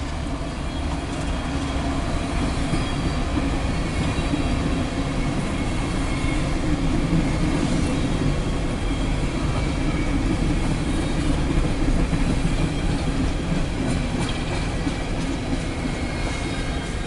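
Empty coal train rolling past, a steady rumble of steel wheels on the rails with rattling and clickety-clack from the empty cars.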